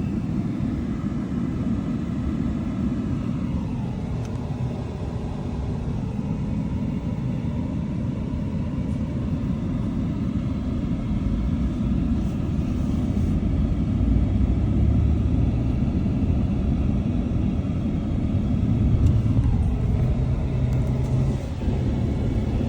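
Steady low rumble of highway traffic, with a falling whine about three seconds in and again near the end as vehicles go past.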